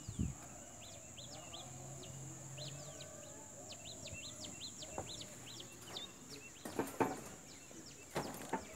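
Small birds chirping repeatedly, short quick falling chirps several times a second, over a steady high-pitched whine. A few sharp knocks come near the start and again around five and seven seconds in.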